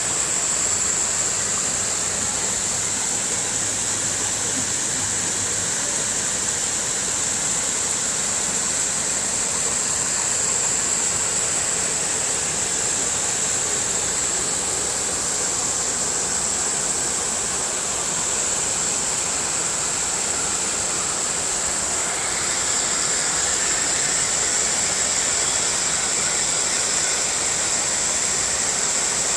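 Waterfall rushing steadily, a constant wash of falling water with a bright high hiss over it; the tone shifts slightly a little over twenty seconds in.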